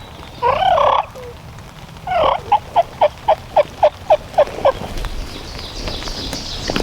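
Wild turkey gobbling, a loud rattling burst about half a second in, then a run of about nine evenly spaced turkey yelps at roughly four a second.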